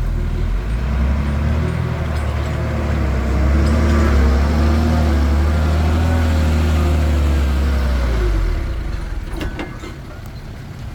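Komatsu D21P bulldozer's diesel engine running steadily under load, easing off about eight and a half seconds in, followed by a few sharp metallic clanks.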